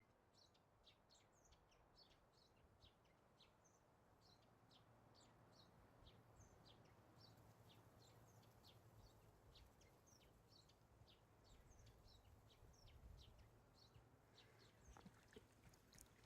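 Faint, irregular high chirping of small birds, several chirps a second, over a low steady background hiss.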